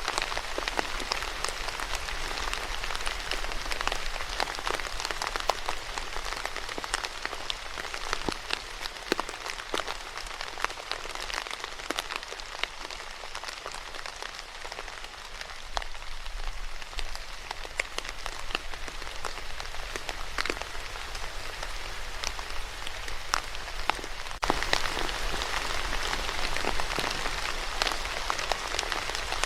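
Steady rain falling on a surface, a dense hiss with many separate drops ticking through it. The rain turns suddenly louder about five seconds before the end.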